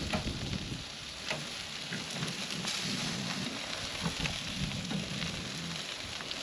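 Food sizzling on an outdoor grill: a steady hiss with scattered crackles and pops.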